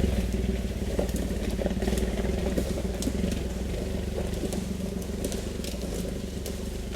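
Suzuki Jimny's engine running at low revs while driving, a steady low drone that eases off slightly, with scattered small clicks and rattles.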